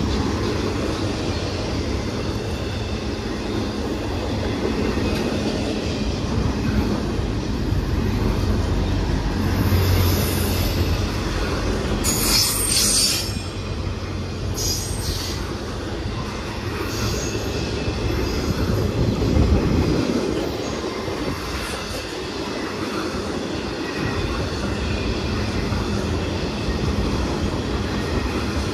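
Freight train cars rolling past with a steady low rumble, and several short high-pitched wheel squeals about ten to seventeen seconds in.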